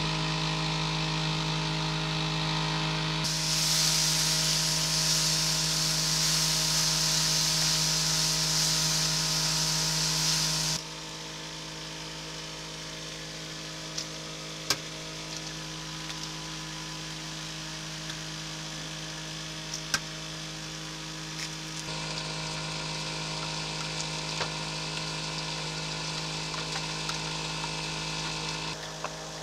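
Chopped vegetables sizzling in a cast iron skillet with a loud, even hiss. After that it drops quieter: a couple of sharp clicks, then a fork beating eggs in a paper bowl.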